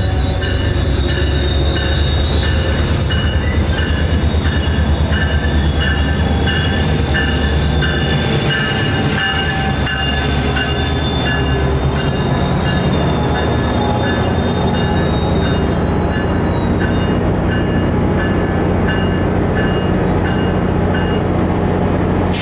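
A train passing at the station, its diesel engine rumbling steadily, with a repeated high ringing tone, about twice a second, that stops near the end.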